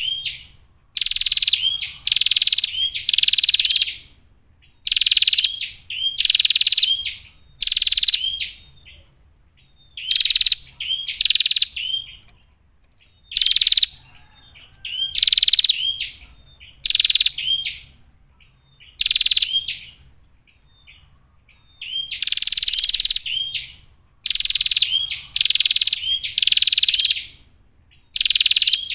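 Female prinia (prenjak) giving harsh, buzzy calls: short rasping bursts in clusters of two or three, with brief pauses between the clusters.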